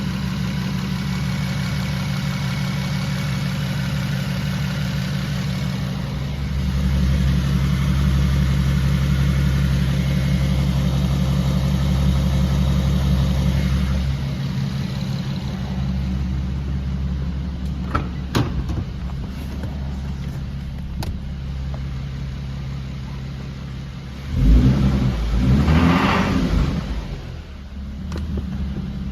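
Infiniti G37 coupe's 3.7-litre V6 running with a steady hum. It grows louder for several seconds from about six seconds in, gives a few sharp clicks around the middle, and has a loud, rough surge about three-quarters of the way through. The owner reports a knocking or pinging from this engine at cold start and at 1500–2000 rpm under acceleration.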